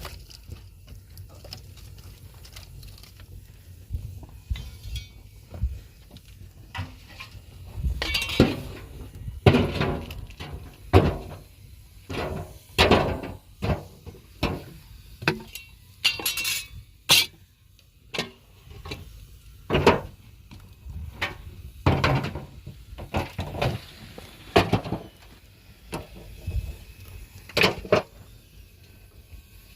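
A series of irregular knocks and clinks, some with a short ring, coming roughly every second or two and thickest after the first several seconds.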